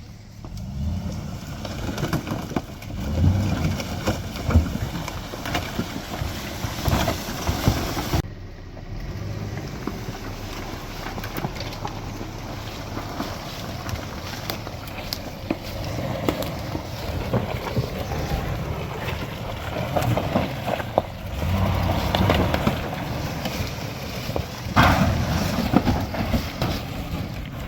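GMC Z71 pickup truck's engine revving and labouring as it drives off-road, with scattered knocks from the body and wind on the microphone.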